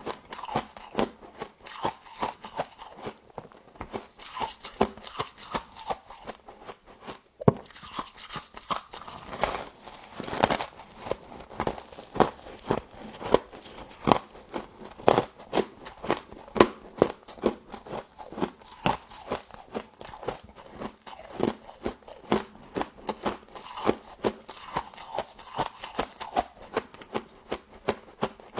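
Close-up crunching and chewing of humidifier frost: a dense run of sharp, irregular crackles and crunches, several a second.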